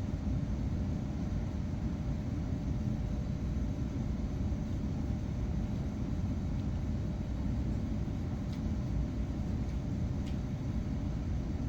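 Steady low rumble of running machinery with a faint constant hum, and a couple of faint clicks in the second half.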